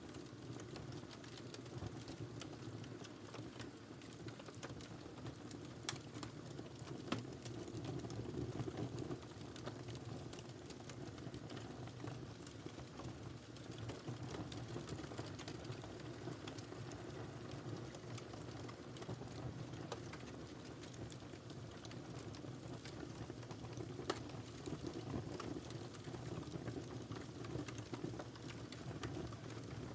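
Fire crackling in a fireplace: a steady low rush of flames with frequent small pops and snaps, and a few louder pops.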